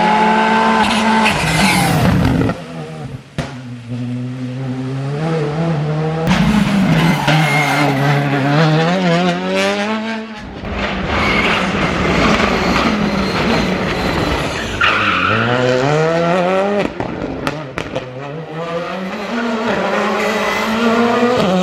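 Skoda Fabia R5 rally cars' turbocharged four-cylinder engines accelerating hard, the pitch climbing and dropping again at each gear change, with tyre noise. Several short passes follow one another, each cutting off abruptly.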